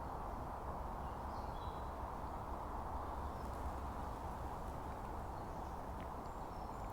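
Faint steady woodland background noise, with a brief faint bird chirp about a second and a half in.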